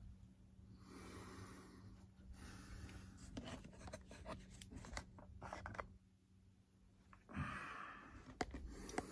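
Faint scratching strokes of a tool drawn across the foam airframe of an RC model jet, in several short passes, with scattered light clicks and taps. The strongest pass comes near the end.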